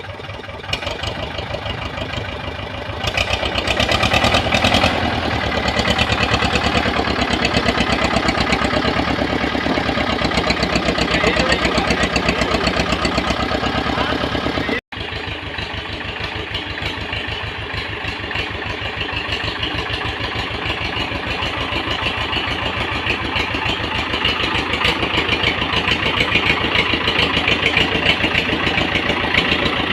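Tractor diesel engine running hard with an even firing beat, labouring as the tractor struggles to climb a slope. It gets louder a few seconds in, cuts out for an instant about halfway, then pulls steadily and builds again towards the end.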